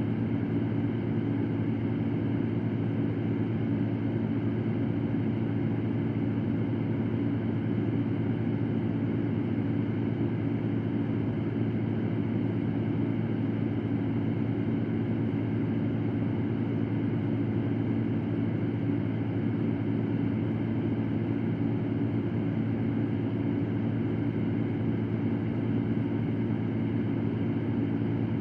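Electric fan running steadily: an even rush of air over a low motor hum.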